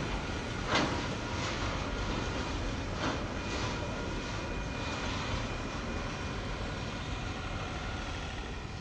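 Container wagons of a freight train rolling past: a steady rumble and rattle of steel wheels on the rails, with a sharper clank about a second in and another about three seconds in. The sound eases a little near the end as the last wagon goes by.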